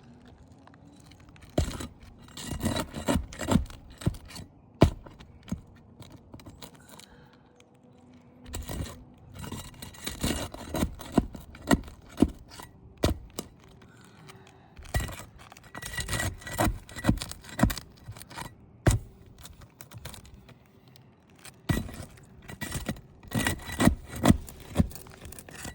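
Asphalt roof shingles being lifted and worked loose, with scraping and crackling in repeated bursts as loose granules grind and scatter off them: a sign of heavy granule loss.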